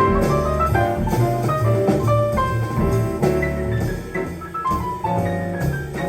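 Live jazz band instrumental: a piano playing a solo line of single notes over bass and drums.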